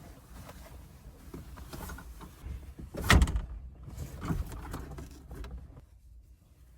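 Rustling and handling noises of things being moved around, with one loud thump a little over three seconds in and a smaller knock about a second later.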